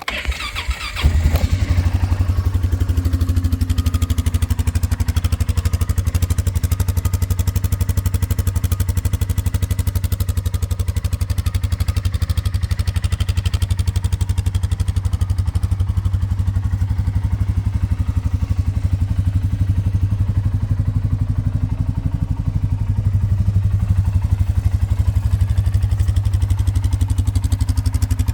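2024 Polaris Sportsman 570's single-cylinder engine cold-started through its stock exhaust: it cranks and catches about a second in, then idles steadily with a low, even pulse.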